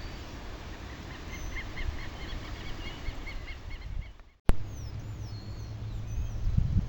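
Wild birds singing: one bird gives a rapid run of repeated short chirps, about three or four a second. After a brief cutout with a click, higher whistled calls that slide up and down follow, over a low rumble of wind.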